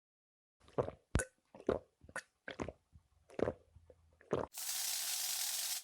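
Water splashing in a string of short plops and splashes, then a steady spray of water starting about four and a half seconds in.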